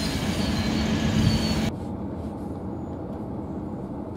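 Hunter diesel railcar running in along the platform, its engine drone mixed with a faint high-pitched wheel squeal. About a second and a half in the sound cuts abruptly to a quieter, duller rumble.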